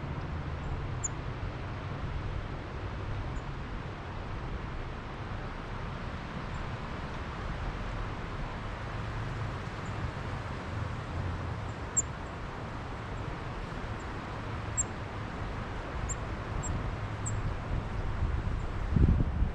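Wind rumbling on the microphone, with a stronger gust near the end, and short, high chips from small birds scattered through it.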